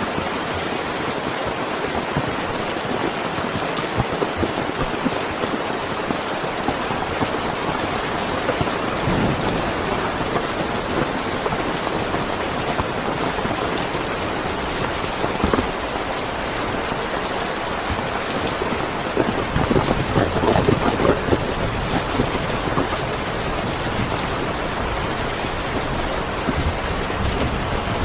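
Heavy rain falling steadily, with a louder, deeper stretch about two-thirds of the way through.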